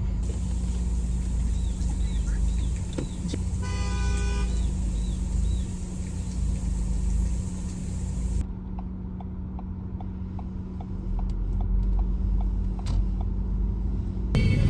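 Car's road and engine rumble from inside the cabin while driving, with a horn sounding once for about a second around four seconds in. A steady, regular ticking follows in the second half.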